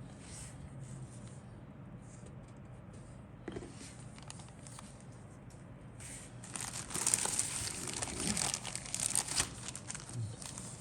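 Packaging of a plastic model kit crinkling as it is handled: faint at first, then a denser stretch of crinkling from about six and a half seconds in that is loudest toward the end.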